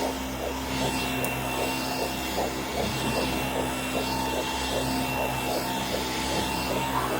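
Vacuum cleaner running steadily as white noise for soothing a baby, a constant motor hum with a pulsing rhythm about twice a second. Soft rhythmic shushing hisses, the 'piş piş' used to calm babies, come in over it a little more than once a second.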